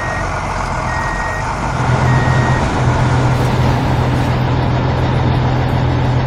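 A heavy construction vehicle's engine running steadily, its reversing alarm beeping three times about a second apart in the first few seconds. The engine grows louder about two seconds in.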